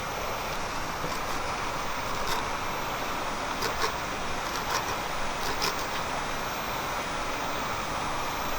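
Steady rushing noise with a few short, sharp clicks scattered through it.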